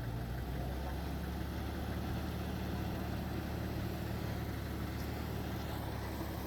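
Heavy diesel engine of earthmoving machinery running steadily at an even speed, a constant low hum.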